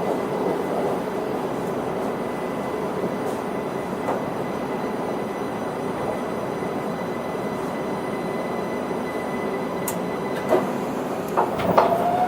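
Cabin running sound of a Linimo HSST maglev train, which runs levitated with no wheel-on-rail noise. A steady hum with a faint high whine that stops about ten seconds in, followed by a few clicks and knocks near the end.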